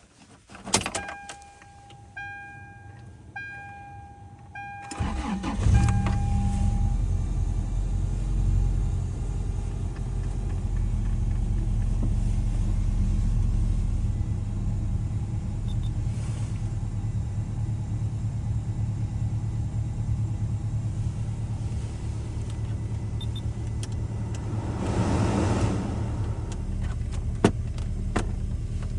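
Car cold start: a click, a warning chime beeping several times, then the engine cranks and catches about five seconds in. It settles into a steady idle, with a brief swell in the sound near the end.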